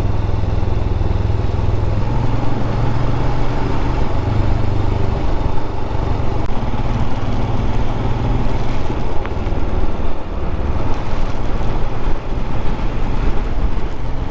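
Royal Enfield Scram 411's single-cylinder engine running at a steady cruising pace, under a steady rush of wind noise.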